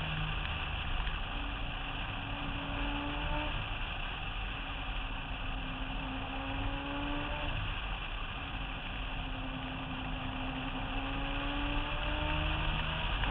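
Rotary-engined Mazda RX-7 drift car driving on track, heard from a camera on its roof. The engine note climbs slowly and drops back about four times, like gentle acceleration through the gears, over a steady rush of wind and road noise.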